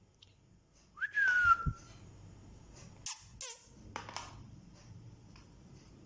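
Pet parrot giving a single whistle about a second in, a quick upward swoop that settles into a held note for about half a second. A few sharp clicks follow.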